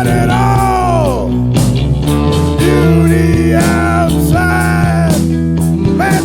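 Skinhead rock and roll band recording playing: guitars, bass and drums, with a lead melody line that slides down in pitch about a second in.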